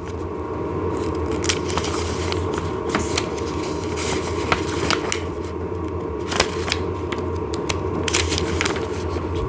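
Scattered light clicks and rustles of hands handling paper or parts, over a steady low hum.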